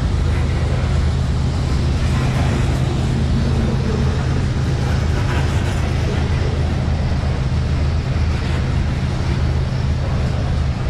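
Loaded covered hopper cars of a grain train rolling slowly past on the rails, making a steady low rumble with wheel and rail noise as the train creeps up a grade.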